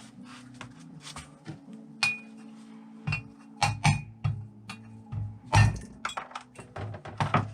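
Metal engine parts and tools clinking and knocking against each other in quick, irregular strikes during motorcycle engine disassembly, with background music underneath.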